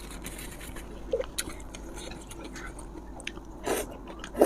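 Close-miked eating sounds: chewing, with a few short wet mouth smacks, the loudest near the end.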